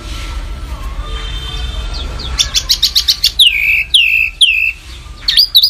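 Songbird singing a fast, sharp song: about halfway in, a quick burst of high chirps, then a run of downward-sweeping notes about two a second, and another burst of sharp high notes near the end. A low hum runs under the first half.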